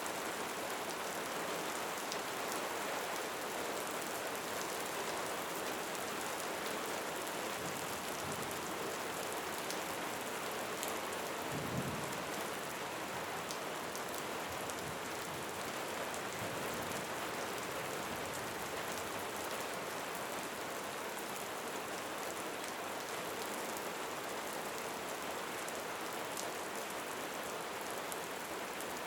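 Steady rain falling, with individual drops ticking through the wash of sound. A brief low rumble comes about twelve seconds in.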